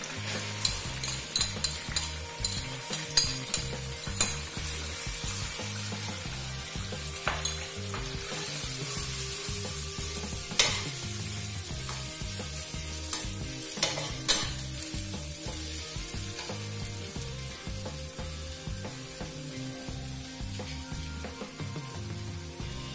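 Bean sprouts frying in hot oil in a wok, sizzling steadily, while a spatula stirs and scrapes them, with sharp clacks of the spatula against the pan over the first fifteen seconds or so.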